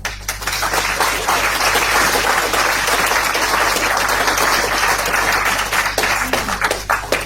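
A crowd applauding: many hands clapping in a dense patter that swells up in the first second, holds, and dies away near the end, over a low steady hum.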